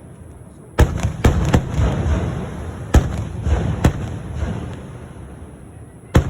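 Fireworks going off: about six sharp bangs, the first one just under a second in, with a rumbling crackle filling the gaps between them.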